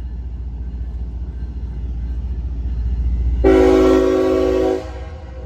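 Diesel freight locomotives rumbling and growing louder as they approach, then the lead locomotive's air horn sounds one chord blast about three and a half seconds in, lasting about a second and a half.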